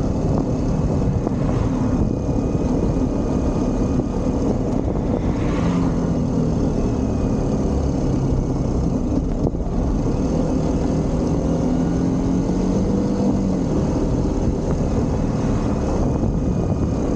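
Motorcycle engine running steadily under way, its note rising and falling slightly with speed, over a constant rush of wind and road noise.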